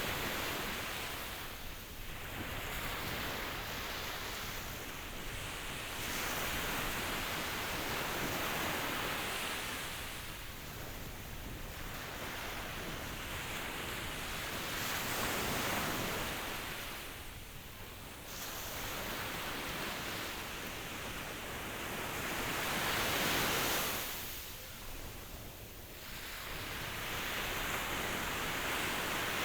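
Ocean surf: a continuous rush of waves that swells and eases, with a lull about every eight seconds as each wave draws back.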